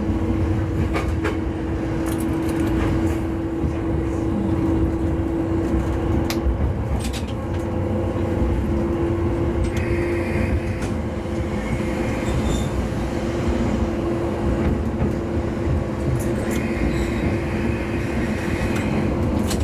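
Diesel railcar running with a steady engine hum over a low rumble, heard from the front of the train. A brief higher-pitched sound comes twice, about halfway through and near the end.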